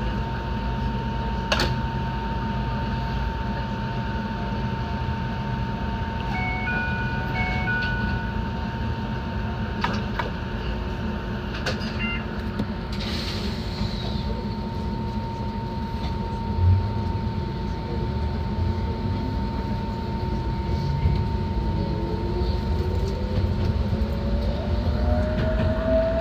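Enoden electric train running on its track: a steady low rumble of wheels on rail, with a few sharp clicks. Near the end a motor whine rises in pitch as the train gathers speed.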